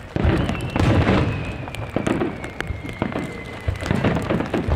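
Aerial fireworks bursting overhead: a heavy boom just after the start, then a dense crackle of small pops and a thin whistle that slides slowly down in pitch for about three seconds.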